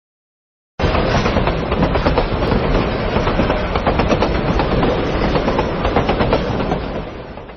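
Train running past, loud and dense with the rattling clatter of wheels over the rails; it starts suddenly and fades away near the end.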